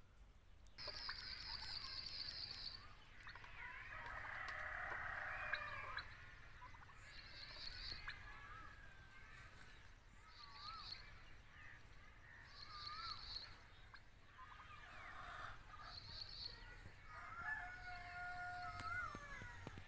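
Turkey gobbling, a rippling call about four seconds in and again near the end, while a short high trill recurs every two or three seconds.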